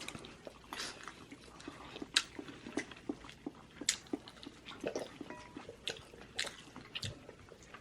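Eating sounds from fried chicken: scattered short crunches, clicks and smacks of chewing, several a second, at irregular intervals.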